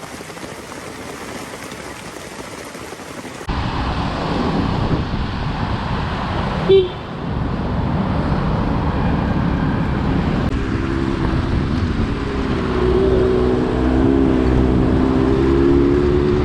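A motor vehicle running on the road, with a steady rush of wind or tyre noise that gets suddenly louder a few seconds in. A single sharp click comes near the middle, and a wavering engine note joins in the second half.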